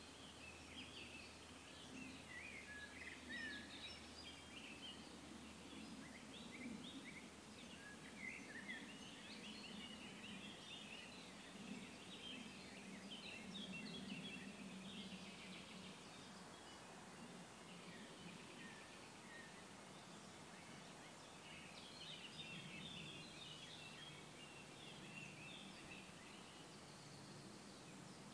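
Faint birdsong: small birds chirping and singing in the background over a low, steady hum of outdoor noise.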